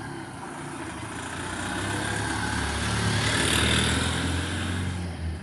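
A motor vehicle's engine running as it passes, growing louder to a peak about three and a half seconds in, then fading.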